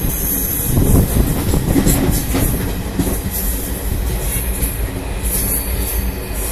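Passenger train running along the track, heard from inside the coach: a steady rumble and rattle of wheels on rail, with a steady hiss and a few short knocks.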